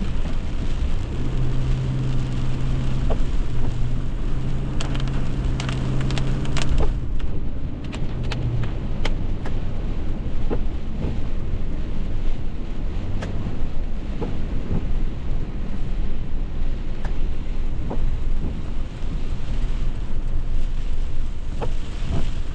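Heavy rain drumming on a moving car, with a constant low rumble and many sharp drop ticks. A steady low hum runs through the first third and then fades.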